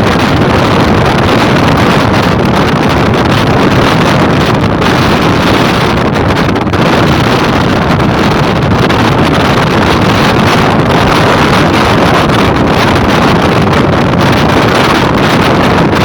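Strong wind buffeting the microphone in a loud, steady rush, with a vehicle running underneath.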